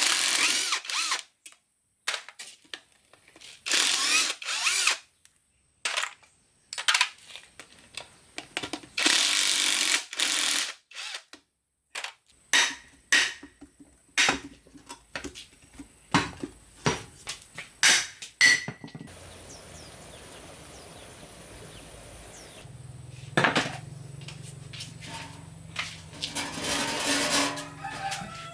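A power tool runs in short bursts of about a second each, three times in the first half, amid many sharp metallic clicks and knocks of tools and parts being handled. In the second half a steady low hum sets in.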